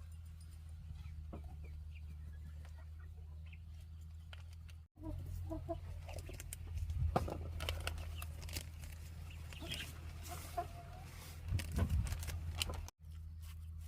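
Chickens clucking, with scattered clicks and knocks over a steady low hum.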